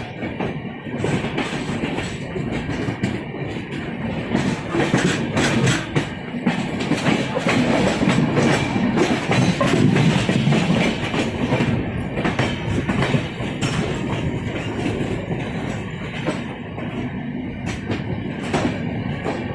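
Passenger train running on the rails, its wheels clattering over the rail joints. The rumble swells louder about halfway through, then eases back.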